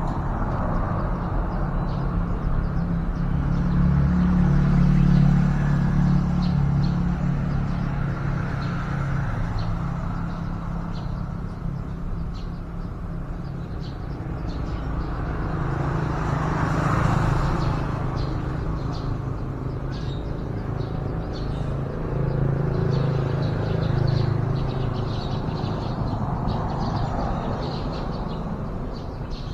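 Road traffic running past, its low rumble swelling and fading as vehicles go by, with one passing loudly about two thirds of the way through; short high bird chirps are scattered throughout.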